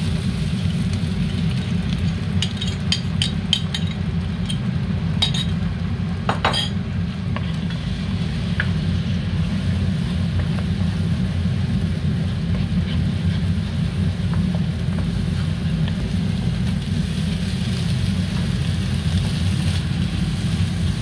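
Beaten egg sizzling in a frying pan as it is poured in and scrambled with a wooden spoon, with a cluster of sharp clicks of a fork and spoon against the bowl and pan a few seconds in. A steady low hum runs underneath.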